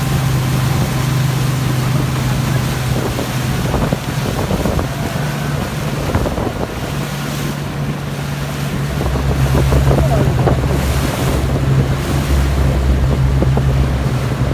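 Speedboat engine running steadily under way, with wind buffeting the microphone and water rushing against the hull. A deeper engine tone joins about two-thirds of the way through.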